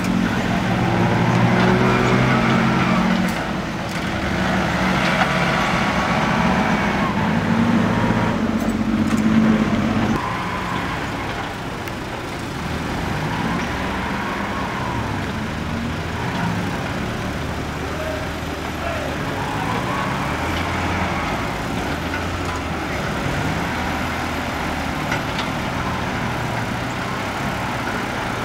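Six-wheel dump truck's engine running, louder for the first ten seconds and then dropping to a lower, steadier note.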